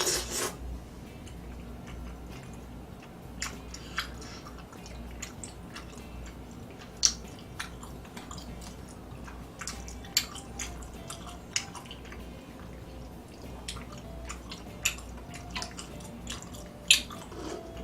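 A person chewing rice cakes close to the microphone, with wet mouth clicks and smacks at irregular intervals every second or two over a low steady hum.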